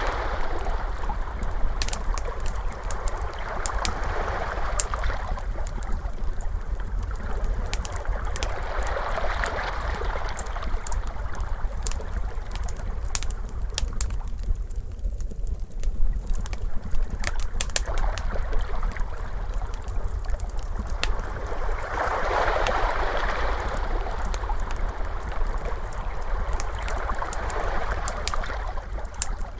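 Ocean waves washing in and out in slow swells a few seconds apart, with a wood fire crackling over them in sharp, scattered pops. The waves ease into a lull about halfway through before swelling again.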